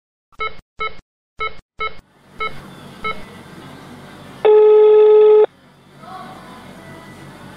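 Phone call being placed: four short beeps, then a hiss on the line and one steady ringback tone about a second long, beginning about four and a half seconds in. The call is ringing at the other end, not yet answered.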